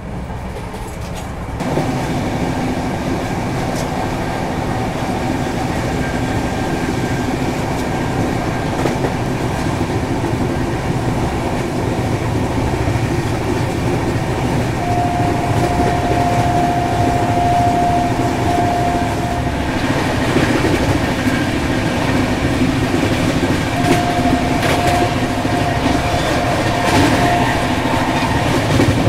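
Duronto Express passenger coach running at about 130 km/h, heard from inside the coach: a continuous rumble and rail noise with occasional clicks from the track. The noise grows louder about two seconds in, and a thin steady whine comes and goes twice, a few seconds each time.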